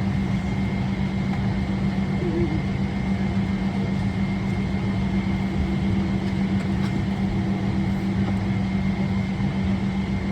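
Steady cabin drone of a Boeing 777-300ER parked at the gate, with its air-conditioning and electrical systems running before engine start: a constant low hum with a faint steady high whine above it.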